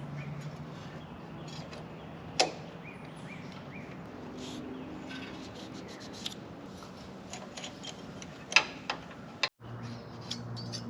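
Small metal clicks and taps of hand tools and engine parts being handled during engine reassembly, with one sharp click a couple of seconds in and a few more near the end, over a steady low hum.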